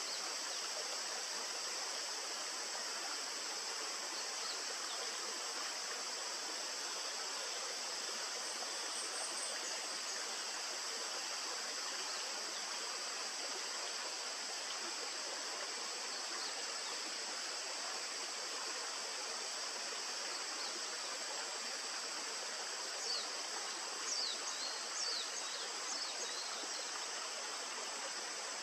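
Steady rushing of a stream, with a continuous high hiss over it. A few brief, sharp high chirps sound near the end.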